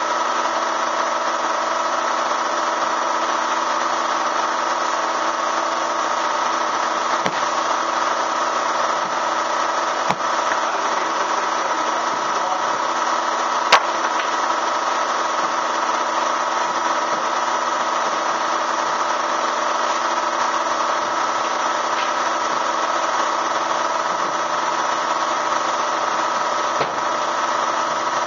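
Bee vacuum's motor running steadily, with two sharp clicks, about ten and fourteen seconds in.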